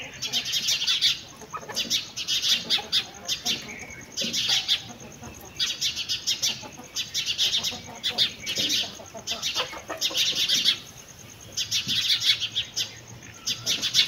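Small songbirds chirping in quick, rapid trills, phrase after phrase with short pauses between.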